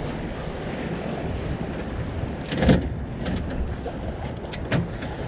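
Steady rush of wind on the microphone and water along the hull of a sailboat under way, with a sharp thump about halfway through and a few lighter knocks.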